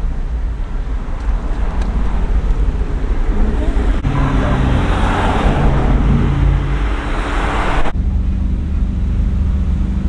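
Road traffic passing by: a steady low rumble, with a louder vehicle going past for a few seconds in the middle that cuts off suddenly.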